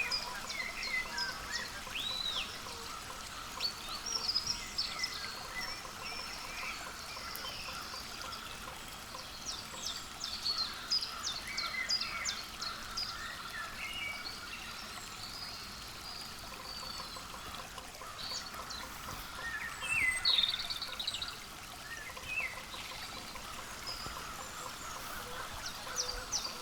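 Small birds chirping and calling, many short high notes scattered throughout over faint steady background noise.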